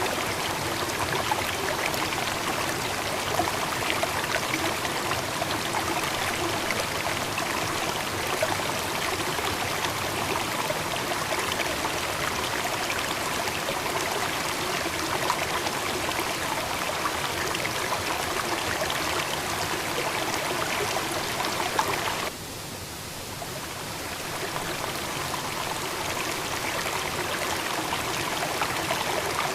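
Steady rush of flowing water, like a stream or waterfall. About 22 seconds in it drops suddenly quieter, then builds back up over a few seconds.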